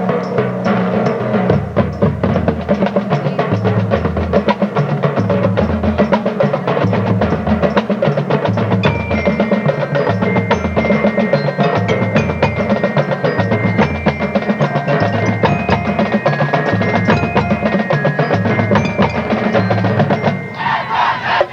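Marching band percussion section playing a driving rhythmic passage: rapid drum strokes over a repeating pattern of pitched bass drum notes. About nine seconds in, mallet percussion joins with a line of high ringing bell notes.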